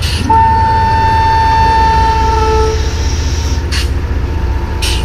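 Model train locomotive sounding its horn: one steady note held for about two seconds, over a steady low running hum, with a couple of sharp clicks near the end.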